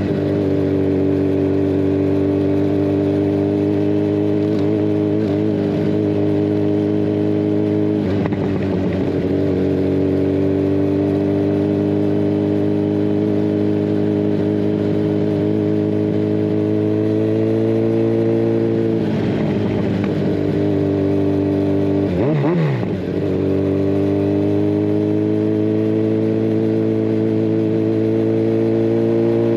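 Kawasaki Ninja 1000SX inline-four running through a decatted Scorpion Red Power exhaust while riding. The pitch climbs slowly as it pulls, with gear changes about 8 seconds in, around 19 seconds, and again around 22 seconds.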